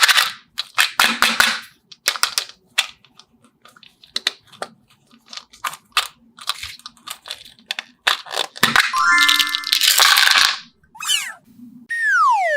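Irregular clicks and crackles of toys being handled, joined by cartoon sound effects: a quick stepped run of rising tones about nine seconds in, then falling whistle-like glides near the end.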